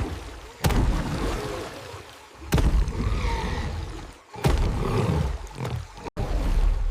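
Roars of a large animal, coming in abrupt waves about every two seconds over a deep rumble.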